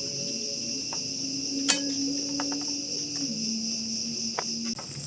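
A steady, high-pitched chorus of insects in the rainforest. Beneath it runs a low hum that drops in pitch about three seconds in, and a sharp click comes just before the middle.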